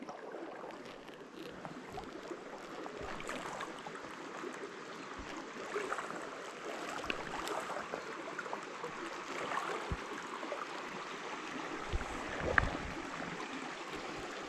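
Small stream running and gurgling over rocks, with a few short soft thumps in the second half.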